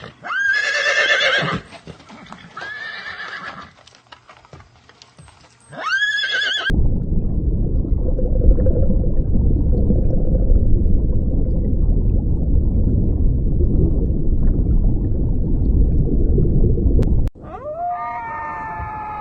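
Horse whinnying three times, each neigh a high call that rises and then wavers down. It is followed by about ten seconds of loud, low, even noise that cuts off suddenly. Near the end a different call with a falling pitch begins.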